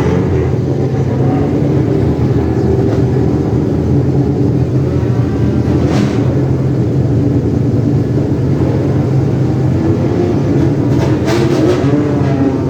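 Sports car engines running in a slow parade, a steady low rumble, with an engine revving up and down near the end.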